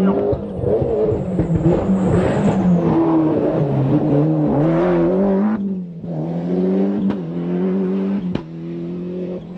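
Ford Escort RS Cosworth rally car's turbocharged four-cylinder engine revving hard on a tarmac stage. The pitch climbs and drops through gear changes, with a brief lift off the throttle a little past halfway and two sharp cracks near the end.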